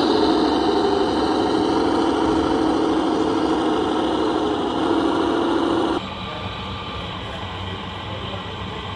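Radio-controlled construction truck running with a steady engine-like hum whose pitch wavers slightly. About six seconds in it cuts off abruptly, leaving a quieter, even rumble.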